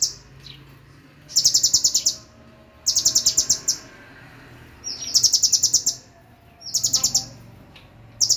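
A songbird repeating a fast, high trill in short bursts of rapid even notes, a new burst every one and a half to two seconds, over a faint low hum.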